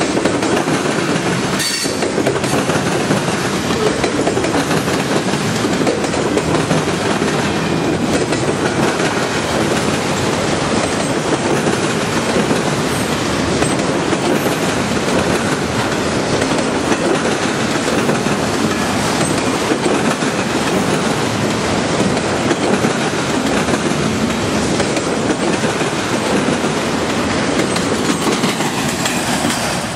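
A train's cars rolling past close by: a steady, loud rumble of steel wheels on the rail, with one sharp click about two seconds in.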